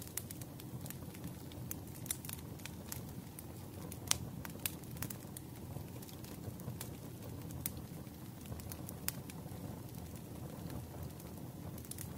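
Wood fire crackling in a fireplace: a steady low rumble with irregular sharp pops, the loudest pop about four seconds in.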